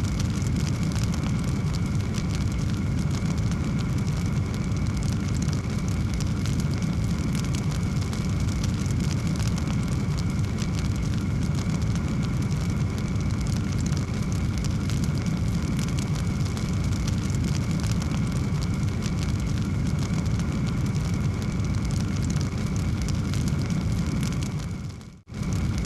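Wood fire in a fireplace crackling steadily: dense small pops over a constant low rumble. The sound cuts out for a moment near the end, then resumes.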